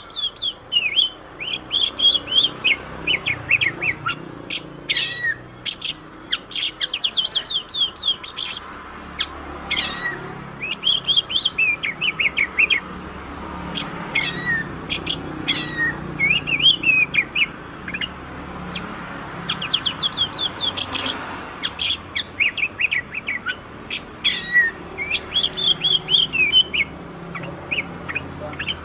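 Oriental magpie-robin (kacer) singing a loud, varied song of rapid chirps and sharp downslurred whistles. The notes come in quick phrases of a second or two, with short pauses between them.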